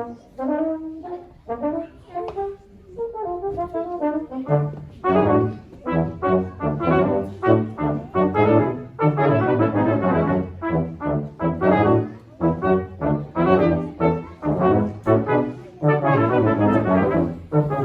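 Brass quartet playing a lively passage of many short notes, lighter at first, with the full ensemble and a low bass part coming in about four and a half seconds in.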